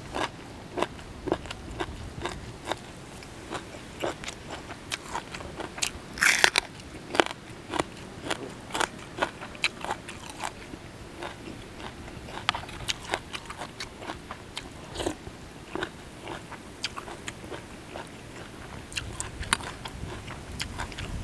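Close-up chewing of crunchy golden apple snail salad: a run of sharp, irregular crunches and mouth sounds, with a louder cluster about six seconds in.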